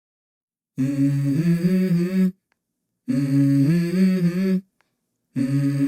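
A voice humming a short tune: the same phrase of about a second and a half, three times, with clean silences between, the third still going at the end.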